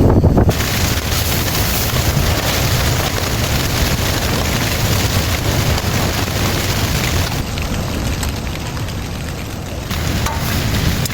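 Heavy rain pouring steadily, with a low rumble underneath. The hiss of the rain eases slightly for a couple of seconds near the end, then picks up again.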